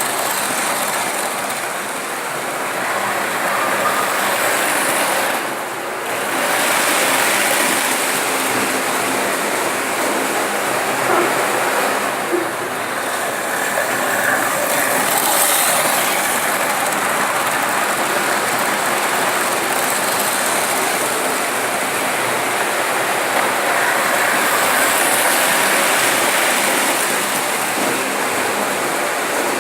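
Märklin model train running on its track: a steady mechanical running noise of small wheels on metal rail and the electric motor.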